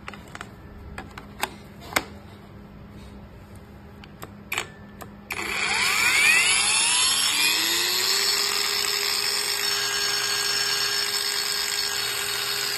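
A few light clicks and knocks, then a cordless angle grinder switches on about five seconds in, its whine rising to full speed over a couple of seconds and then running steadily.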